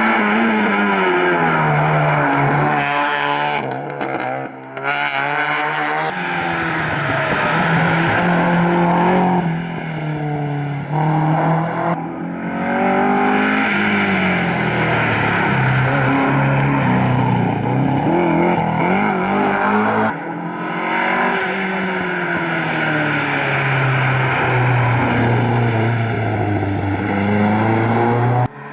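Rally cars driven flat out, one after another: engines revving high and dropping back with each gear change as they accelerate.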